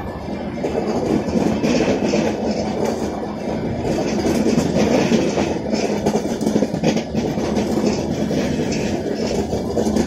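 Passenger coaches of an express train rolling past close by, with a steady rumble and the repeated clatter of wheels over the rail joints.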